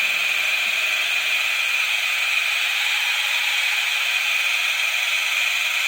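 Homebuilt DC40v2 40-metre radio's speaker putting out a loud, steady, harsh hiss with a strong high-pitched band and a faint low hum, instead of FT8 tones. These are not the intended radio sounds: something in the build is wrong, which the builder means to trace by probing the audio amplification stages.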